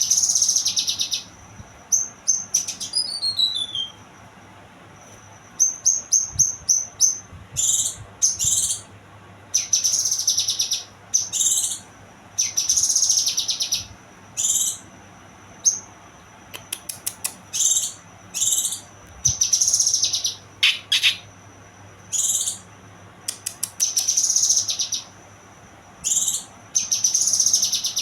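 Young kinoy songbird singing: short, high, chattering phrases repeated every second or two, with quick trills and a few fast falling whistles near the start.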